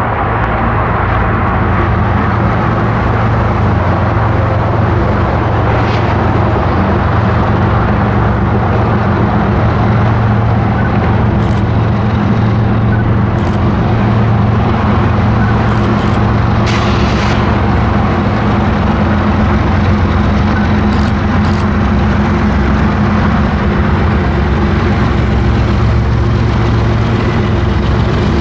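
Diesel freight train running close by: a steady, loud low engine drone with rolling noise, and a few sharp clicks in the middle.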